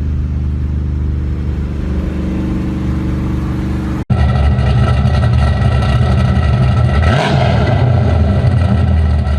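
Hot-rod or muscle-car engine running with a steady rumble. After a sudden cut about four seconds in it is louder, and it revs up briefly near the middle of the second half.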